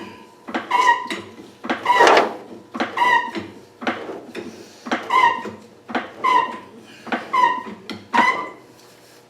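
A car jack being pumped to lift a car, a squeak and knock with each stroke of the handle, about one stroke a second with a short pause partway through.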